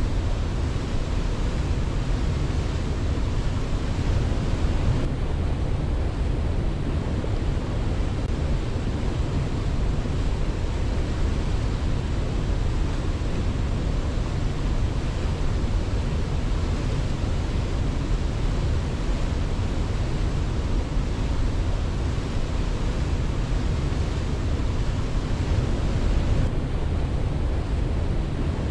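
Waterfall, a steady rush of falling water with no break or change.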